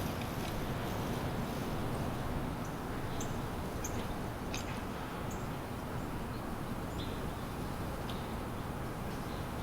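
Several short, high bird chirps scattered over a steady low background rumble.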